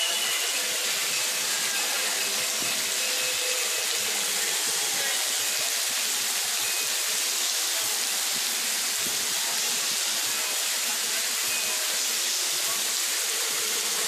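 Heavy, steady rain falling.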